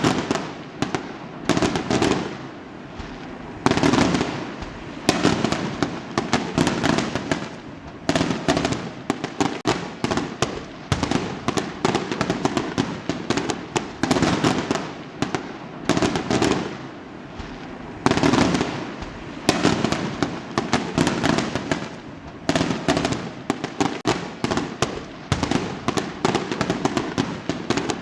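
Fireworks going off in quick succession: repeated bangs with crackling between them, and a fresh loud burst every second or two.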